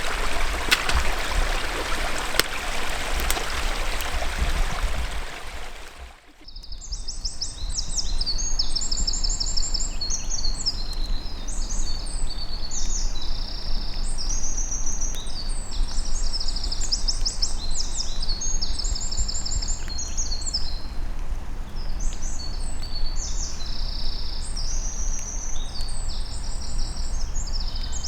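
Water rushing over a beaver dam on a stream, then, after a sudden cut about six seconds in, songbirds singing steadily with high repeated trills.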